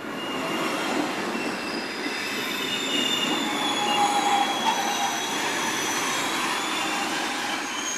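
Electric passenger train running past on the near track: a steady rumble of wheels on the rails with several high, thin metallic squealing tones over it, growing louder about two seconds in.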